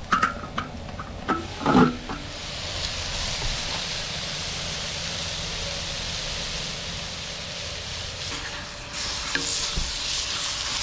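A steel wok lid knocks and clanks as it is lifted off in the first two seconds, then onions and bell peppers sizzle steadily in a cowboy wok (discada). Near the end, sliced beef tenderloin sizzles on the hot steel while a wooden spatula scrapes and turns it.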